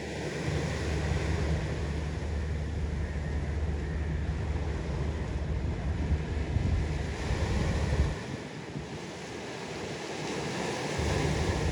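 Wind buffeting the microphone, a heavy gusty rumble over the wash of the sea. The rumble eases for a few seconds about eight seconds in, then comes back.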